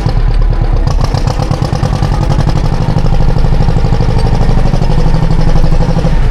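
A classic John Deere tractor engine running steadily with an even, rapid pulse, a little louder from about halfway through.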